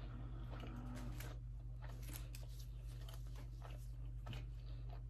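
Quiet eating and food-handling sounds: scattered small clicks and soft rustles of someone chewing a sausage and egg muffin and handling it, over a steady low hum.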